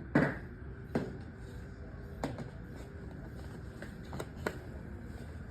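A few light knocks and clicks of objects being handled, spaced irregularly; the first, just after the start, is the loudest.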